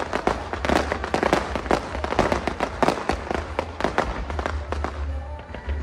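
Fireworks crackling and popping in a dense, rapid, continuous barrage, over a steady low rumble.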